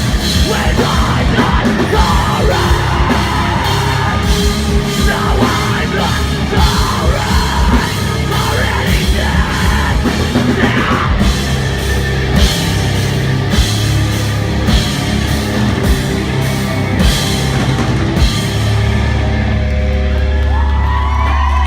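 Live rock band playing loud: pounding drums and crashing cymbals under distorted guitars, with yelled and sung vocals. Near the end the drums stop and a held low note rings out as the song closes.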